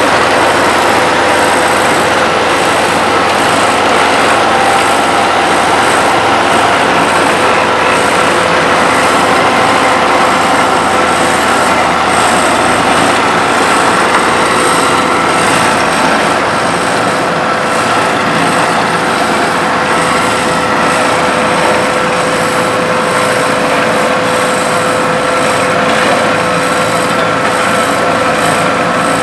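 Heavy road-paving machinery running: a steady, loud diesel engine drone with a constant high whine over it, typical of an asphalt paver working as a dump truck feeds it.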